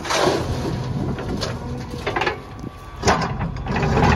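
Backhoe loader's diesel engine running steadily, with several short hissing rushes on top, about a second apart.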